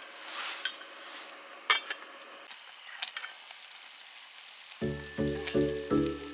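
Food simmering and sizzling in a pot, a steady hiss with a few sharp clicks. Background music with evenly pulsed notes comes in near the end.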